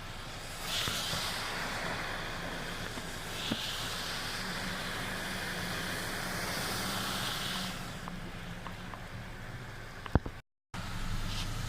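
A vehicle engine running steadily under a rushing hiss of water, typical of driving on a rain-soaked road. There are a few sharp clicks near the end, and the sound cuts out for a moment.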